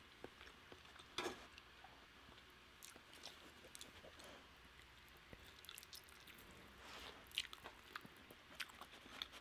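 Faint close-up chewing and mouth smacks of a person eating hand-pulled chicken. Scattered soft clicks, with a sharper smack about a second in and another near the end.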